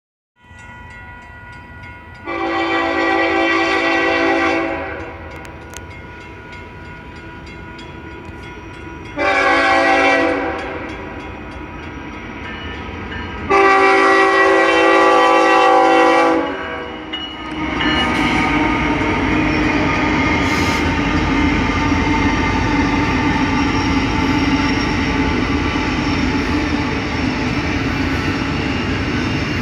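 Union Pacific diesel locomotive air horn sounding three blasts, long, short, long, for a grade crossing. The lead locomotives then pass close by with a steady engine drone and the rumble of a double-stack container train's wheels on the rails.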